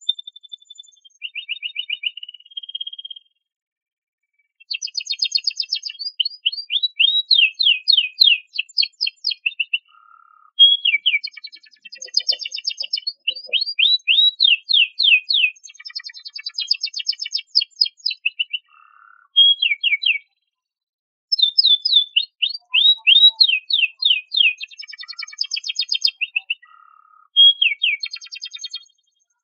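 Domestic canary singing: phrases of rapid repeated down-slurred notes and trills, broken by short pauses.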